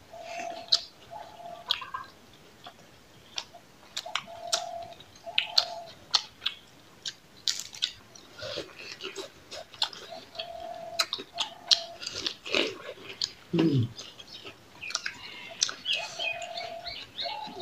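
Two people chewing with open-mouthed smacking and sharp clicks while eating rice and curry by hand, with crunches of fresh lettuce leaf being bitten. A bird calls in the background in pairs of short low notes about a second apart, repeated several times.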